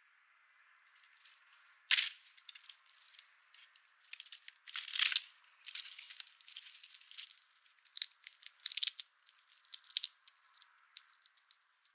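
Squirrel rummaging in the seed of a bird feeder: a string of irregular clicks and rustles, loudest about two and five seconds in.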